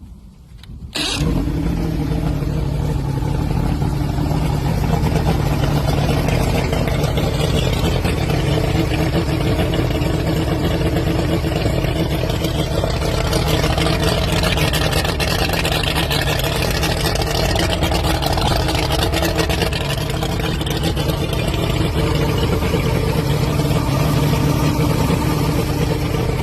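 Mercury 150 Black Max V6 two-stroke outboard motor starting about a second in and then running steadily, with its carburettor freshly rebuilt.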